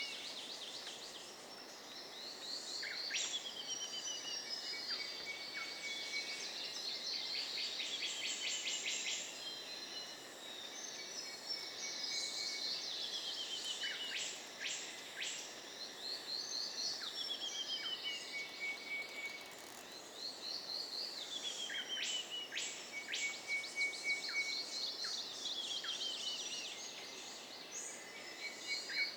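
New Guinea rainforest ambience: several birds calling over a steady hiss of insects. A series of high notes stepping down in pitch recurs four or five times, with a rapid chatter of notes around a third of the way in and sharp whip-like calls scattered through.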